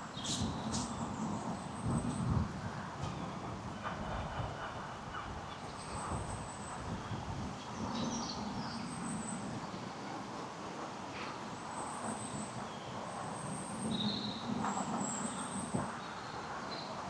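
Small birds giving short, thin, high chirps several times over a steady low rumble, with a few soft footfalls.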